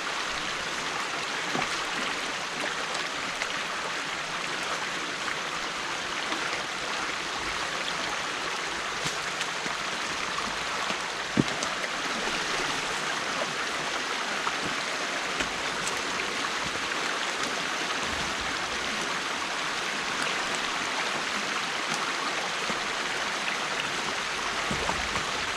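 Stream water rushing steadily through an opening in a beaver dam being cleared by hand, with a single sharp knock about eleven seconds in.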